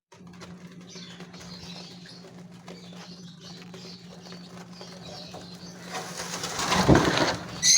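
Gouldian finches giving faint high chirps over a steady low hum. Near the end there is a louder rushing flutter, and then a short sharp high call.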